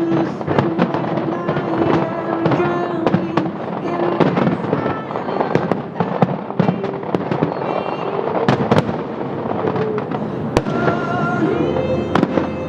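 Fireworks bursting and crackling in quick, dense succession, with many sharp reports, over the show's accompanying music.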